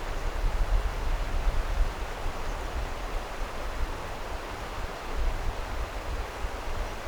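Flowing stream water, a steady even rush, with a low rumble underneath that comes and goes.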